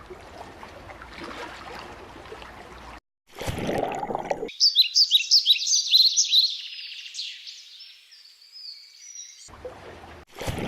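A soft, trickling, water-like rush, then from about four and a half seconds in rapid high bird-like chirping for about five seconds, with short rushing bursts again near the end.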